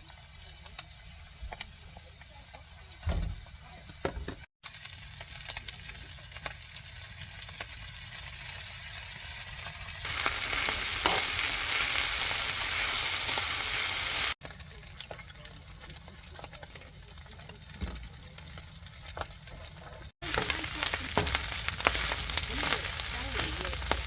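Meat sizzling and crackling on a barbecue grill, heard in several short clips that cut in and out, louder in two stretches.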